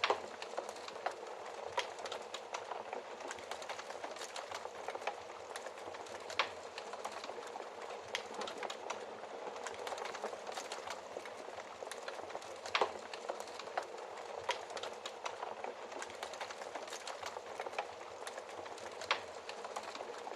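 Wood fire crackling steadily, with a soft hiss and frequent irregular pops, a few of them sharper and louder than the rest.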